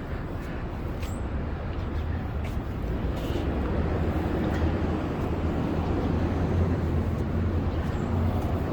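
Street traffic noise: a steady low rumble of vehicles, growing a little louder through the second half, with a few faint clicks.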